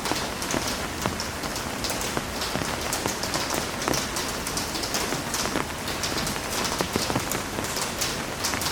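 Heavy rain falling steadily, a dense hiss of rain broken by many close drops pattering and splashing on a hard surface.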